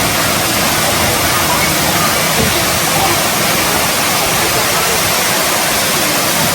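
Steady, even rushing of water, like a waterfall or heavy pouring flow, with no breaks.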